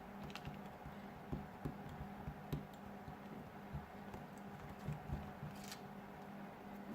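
Scattered small clicks and taps from hands working on a smartphone with small repair tools, irregular and a few a second, over a steady low electrical hum.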